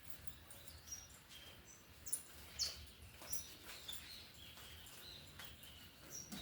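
Faint, scattered short bird chirps and a few light clicks: a quiet stretch between songs.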